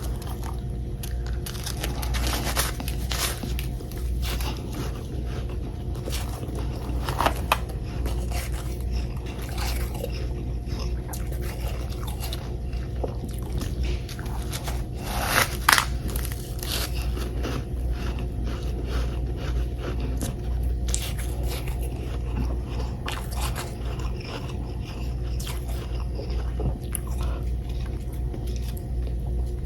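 Close-miked biting and chewing of frozen humidifier-frost chunks: irregular crisp crunches, with two louder bites about seven and fifteen seconds in, over a steady low hum.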